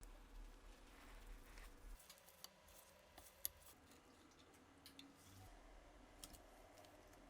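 Faint scattered clicks and light handling noises, with one sharper click about three and a half seconds in.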